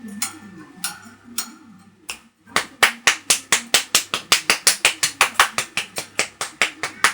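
Sharp clicks or taps, a few scattered at first, then a fast, even run of about six a second starting about two and a half seconds in.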